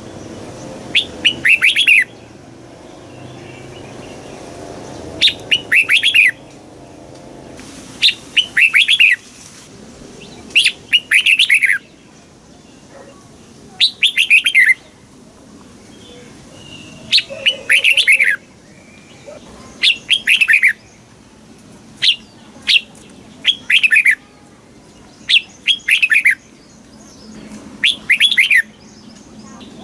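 Red-whiskered bulbul singing: short, loud phrases of quick falling whistled notes, each about a second long, repeated every two to three seconds.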